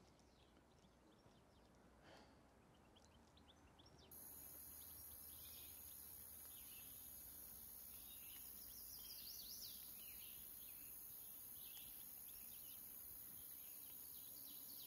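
Faint woodland ambience: small birds chirping and twittering over a steady high hiss. It cuts in suddenly about four seconds in, after near silence.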